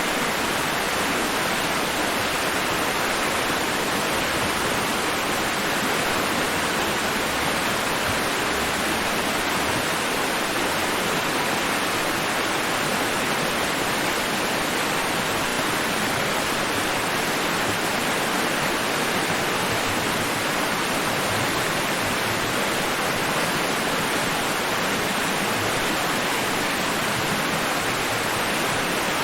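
Steady white noise, a constant even hiss with no rise and fall of individual waves.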